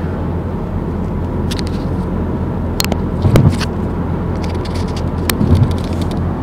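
Mazdaspeed 3's turbocharged 2.3-litre four-cylinder running steadily through an HKS cat-back exhaust at cruise, a constant low drone. A few sharp clicks are scattered through it, with two brief louder bumps, one about halfway and one near the end.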